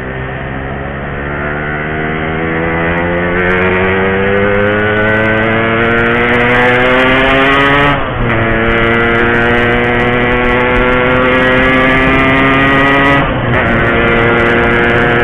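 Yamaha RX-King 135cc single-cylinder two-stroke motorcycle engine accelerating hard, its pitch climbing steadily and dropping at upshifts about eight and thirteen seconds in.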